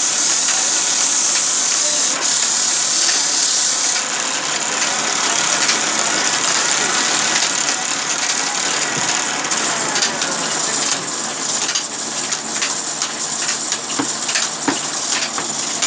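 Sawmill machinery running: a steady, loud noise with a strong high hiss, with irregular knocks and clicks joining in the second half.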